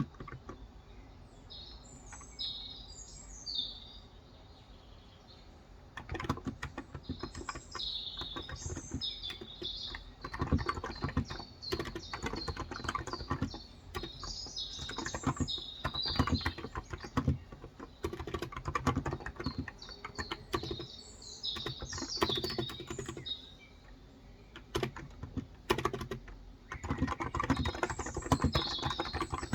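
Typing on a Cox Endeavor electro-capacitive (Topre-style) 35g tenkeyless keyboard: dense runs of muted keystrokes begin about six seconds in, with a short pause near the end. Small birds chirp throughout.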